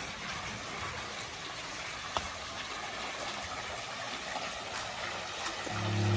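Steady rushing noise with a single faint tick about two seconds in; music starts just before the end.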